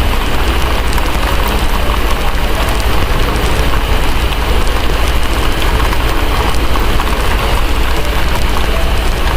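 Steady heavy rain over a deep, continuous low rumble, with fine crackling ticks from a wood fire scattered throughout.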